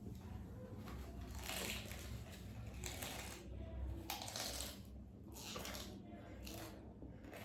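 Close-miked eating of spicy noodles: slurping and chewing in about five short, noisy bursts, each under a second.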